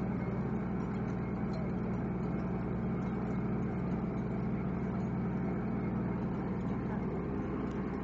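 Steady low drone of the squid-fishing boat's engine machinery running at an even speed.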